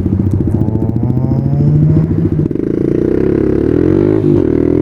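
Dual-sport motorcycle engine running steadily at low revs, then accelerating from about halfway, its pitch rising. Near the end it drops briefly, as at a gear change, before climbing again.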